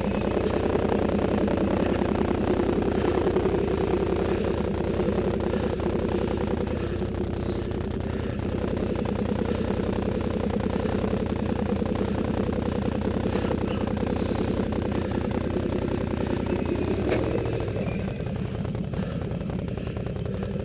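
ATV engines running steadily at low speed, a droning engine note with rapid firing pulses, which eases off a little near the end.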